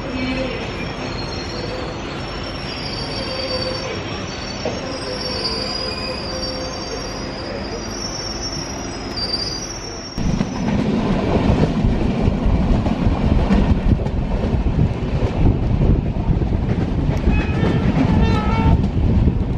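Passenger train's wheels squealing on the rails as it rolls slowly through a station. About ten seconds in, the sound changes abruptly to the train running at speed: a louder, rough, steady rush of wheels on track and wind.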